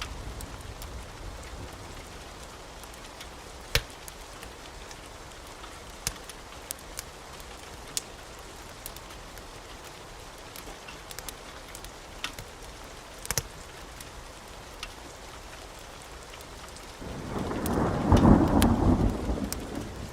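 Steady rain with scattered sharp clicks, then a rumble of thunder that swells in about three-quarters of the way through and is loudest near the end.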